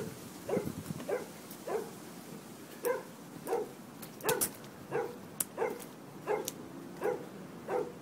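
A dog barking over and over, about a dozen short barks at a steady pace of roughly one every two-thirds of a second, each dropping in pitch.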